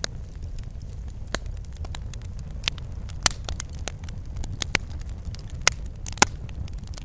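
Wood fire crackling over a steady low rumble, with irregular sharp pops and snaps, the loudest a little after three seconds in and again just past six seconds.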